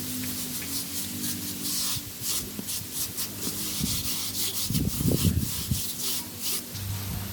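Repeated rough scraping strokes, about three a second, with a few dull low thumps near the middle.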